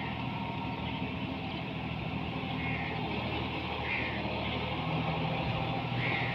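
John Deere 5210 4x4 tractor's diesel engine running steadily, with a few short high chirps over it.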